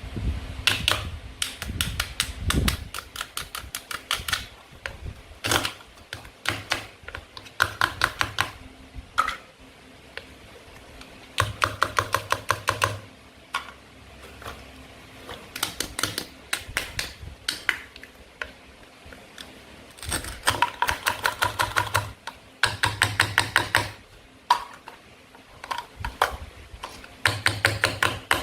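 Hard toy play-food pieces clicking and tapping in quick bursts, about ten sharp clicks a second, each burst lasting about a second, over and over.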